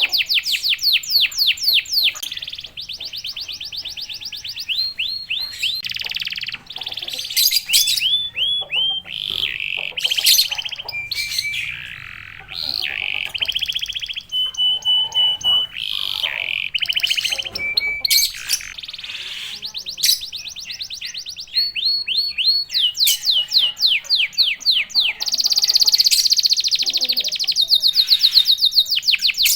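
Domestic canary singing a long, vigorous song of fast rolling trills and rapid repeated notes, with a held whistle-like note near the middle.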